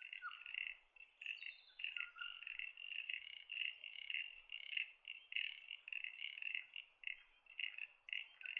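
Frogs calling in a chorus: a steady run of short, rapidly repeated, high-pitched calls.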